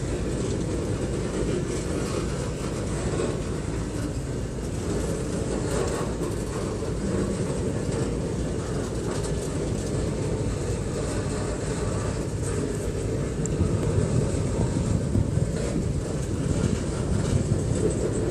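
Freight train of covered steel-coil cars rolling past: a steady low rumble of wheels on rail with light clicking over the rail joints, growing a little louder and more uneven in the last few seconds.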